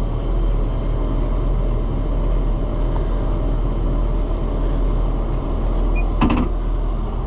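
Farm tractor engine running steadily with a deep rumble, with a single short clank about six seconds in.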